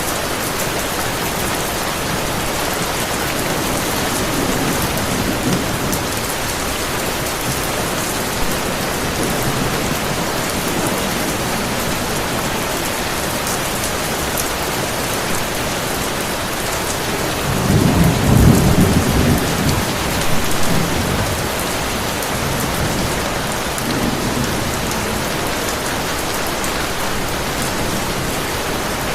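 Heavy, steady rain with a thunderstorm: a low roll of thunder swells up about two-thirds of the way through, with fainter rumbles earlier and later.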